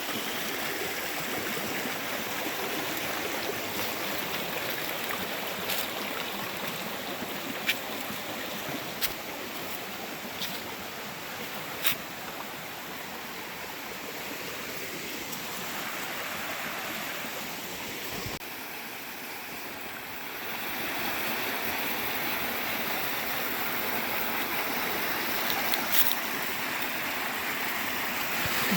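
A creek's water rushing and splashing over rocks, steady throughout, with a few brief clicks.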